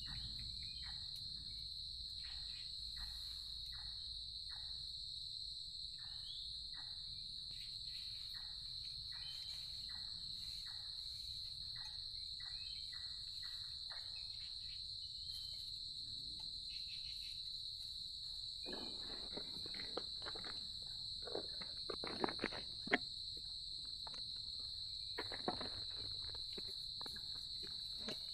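Insects chirring steadily in one high unbroken tone. About two-thirds of the way in come bursts of rustling and a few sharp knocks.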